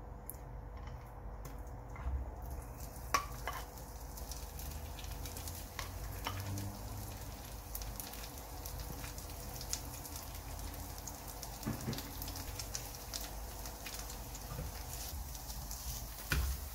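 Grated sweet potato sizzling and crackling in hot oil in a nonstick frying pan, starting about three seconds in when it goes into the oil. Near the end a spatula knocks and scrapes against the pan as the mixture is stirred.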